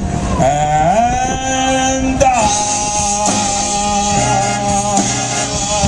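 A live band playing, with a singer. About half a second in, a note slides up and is held for about two seconds before the music carries on.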